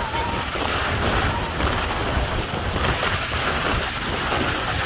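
Heavy wind-driven rain pouring down onto a waterlogged street, with gusts buffeting the microphone in a low rumble. The downpour stays steady throughout.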